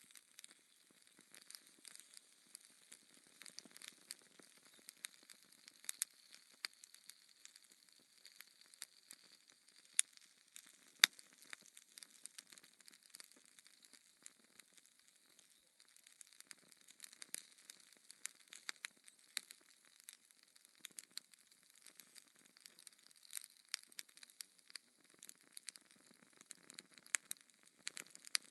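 Wood fire in a fireplace crackling, with irregular sharp pops over a faint hiss; two louder pops come about ten and eleven seconds in.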